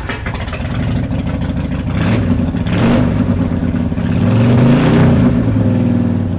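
2005 Harley-Davidson Softail Night Train's air-cooled 88 cubic inch V-twin running through an aftermarket exhaust and being revved, the engine note rising and falling with swells about two seconds in and again near five seconds.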